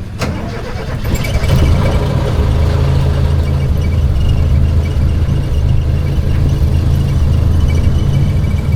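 An old jeep's engine running with a steady low rumble while driving, building up over the first second. A sharp click comes right at the start.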